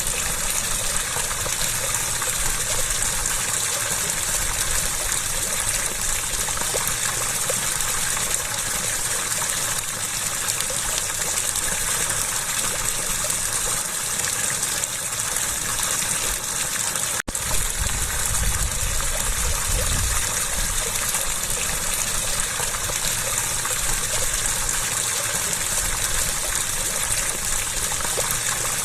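Water rushing and splashing in a steady, continuous flow, with a brief break about 17 seconds in.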